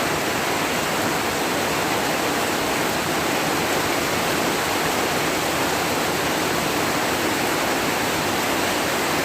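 Steady downpour of rain, an even hiss.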